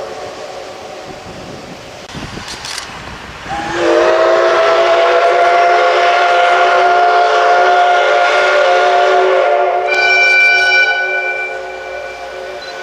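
Steam locomotive whistle of the SL Ginga (C58 239) sounding one long, loud blast: it starts about three and a half seconds in with a slight upward slide in pitch, holds steady for about eight seconds, and a higher-pitched tone joins briefly near the end before it drops away. At the start the tail of an earlier blast is dying away.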